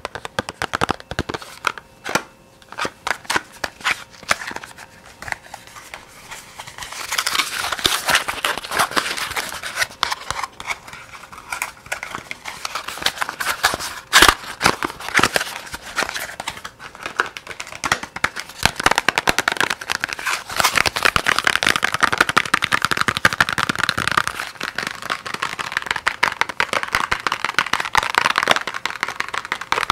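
Soft, fast ASMR tapping close to the microphone. Separate sharp taps come first, and about seven seconds in they turn into a dense run of rapid taps over a steady rustle.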